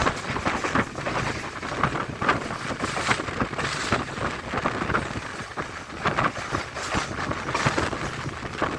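Passenger train running along the line, wheels clattering irregularly over the rails under a steady rush of wind on the microphone.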